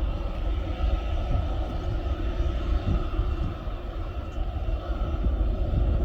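Airliner engines heard at an airport: a steady roar with an uneven low rumble and a faint steady whine.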